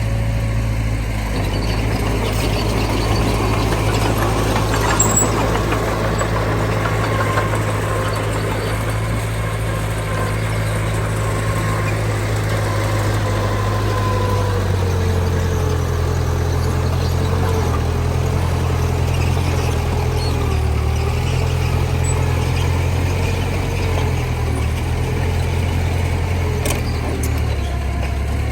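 Heavy diesel earthmoving machinery running steadily, with a whining tone that wavers and slides in pitch from about halfway through.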